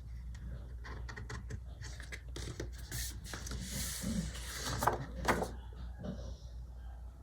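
Paper and sticker sheets being handled on a desk: rustling and rubbing, with many light clicks and taps, over a low steady hum.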